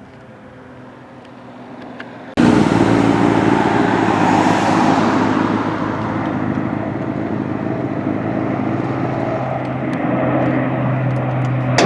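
Aircraft engine noise at an airshow. A low hum for the first two seconds gives way abruptly to a loud, steady engine sound with a hissing top that swells and then eases.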